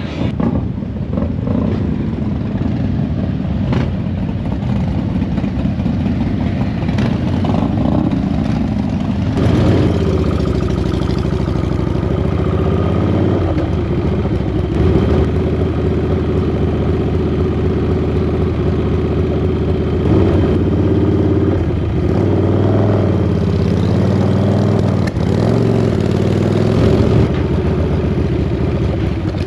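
Chopper motorcycle engine running under way, its revs rising and falling repeatedly through throttle and gear changes.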